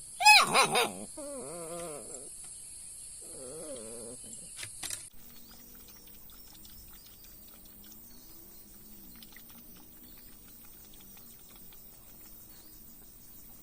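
An animal calling three times in the first four seconds, each a wavering, whining call, the first the loudest. A steady high hiss behind the calls cuts off suddenly about five seconds in, leaving only faint background sound.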